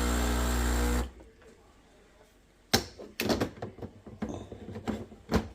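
A steady motor hum stops abruptly about a second in. After a short quiet gap comes a run of small knocks and clicks as coffee-making equipment is handled.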